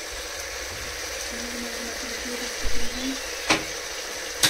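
Mutton, onions and spices frying in a pot with a steady sizzle. A dull thump comes nearly three seconds in, then a spoon knocks sharply against the pot twice.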